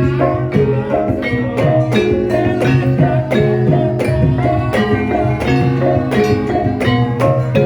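Javanese gendhing played by a gamelan ensemble: tuned struck percussion sounding interlocking notes in a steady, busy rhythm.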